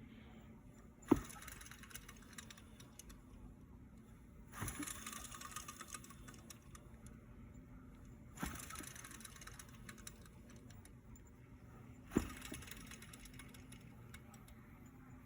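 Honda Civic K8's D16A engine running with a steady low hum, while a knock followed by a short rattle repeats about every four seconds: the abnormal noise put down to a faulty alternator.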